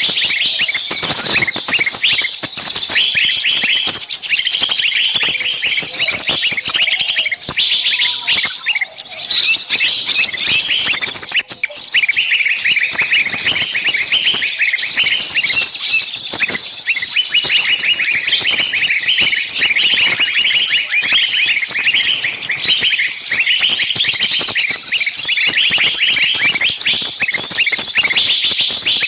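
Many small songbirds chirping and shrieking at once in a dense, unbroken high-pitched racket of overlapping calls: a bird-trapping lure recording of small birds' agitated screaming, the calls of a bird caught or pinched.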